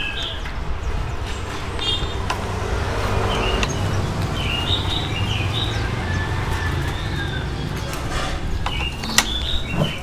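Short bird chirps in a few brief groups over a steady low rumble like distant traffic, with a few sharp clicks.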